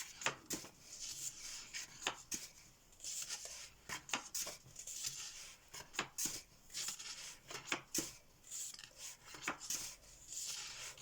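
Pages of an Amazon-printed paperback coloring book being turned one after another: repeated papery swishes and light taps as pages are lifted and laid down.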